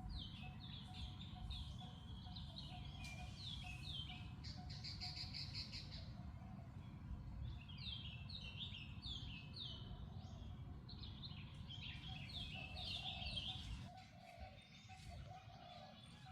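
Birds chirping in quick runs of short, falling high notes that come in several bursts, with a fast trill about five seconds in, over a low rumble.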